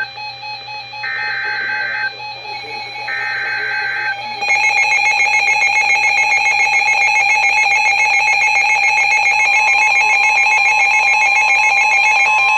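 NOAA Weather Radio alert sequence: two short bursts of the screechy digital SAME header, each about a second long, then a loud steady alarm tone that starts about four and a half seconds in and holds. The tone is the attention signal that comes before a broadcast warning.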